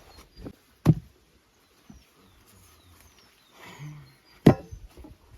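Dull thuds of a pole being tamped in, with dirt and fired bricks packed around its base: two loud blows, about a second in and near the end, with a few lighter knocks between.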